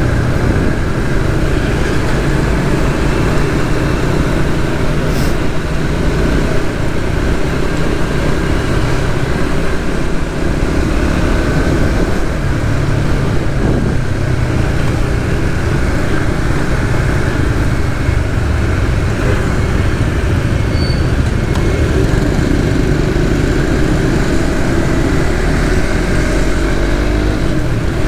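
Suzuki GSX-S150's single-cylinder engine running steadily at road speed, under a constant rush of wind and road noise, with other traffic around.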